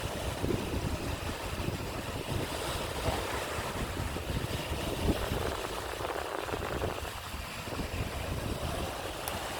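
Wind buffeting the microphone in uneven gusts over the wash of the sea.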